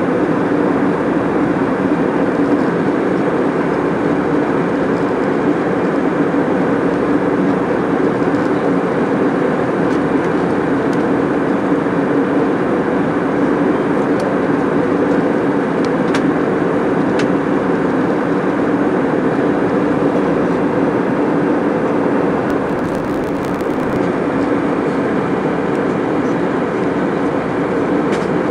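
Steady cabin noise of a jet airliner in cruise: a constant low rumble of engines and airflow, heard from inside the passenger cabin.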